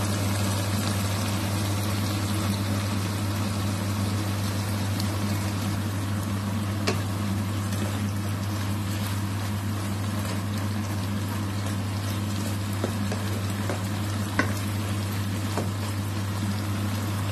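Water spinach and diced luncheon meat sizzling as they are stir-fried in a wok, with a spatula knocking against the pan a few times, over a steady low hum.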